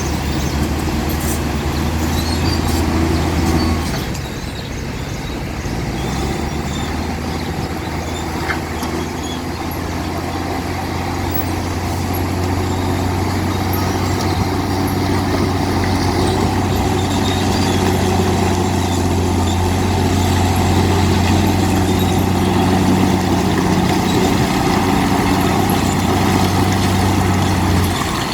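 Heavy diesel engine of a construction machine running steadily under load; it eases off about four seconds in, then slowly builds up again.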